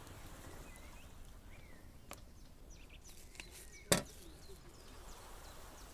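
Quiet outdoor ambience with faint short chirps and two sharp clicks, the second and louder about two-thirds of the way through.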